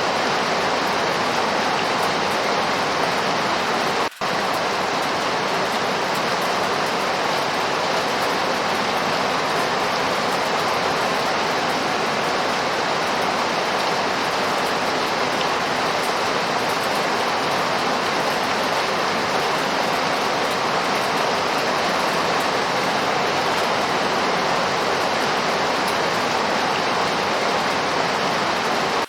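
Steady heavy rainfall, an even dense hiss, broken by a momentary dropout about four seconds in.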